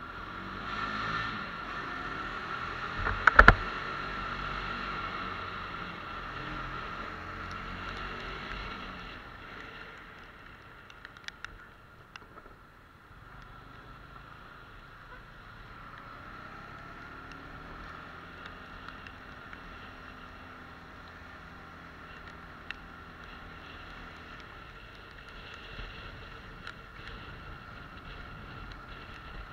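Bajaj Pulsar 150 motorcycle's single-cylinder engine running under way, its pitch rising and falling, over a steady hiss. The engine is louder for the first several seconds and then settles quieter. A sharp knock about three seconds in is the loudest sound.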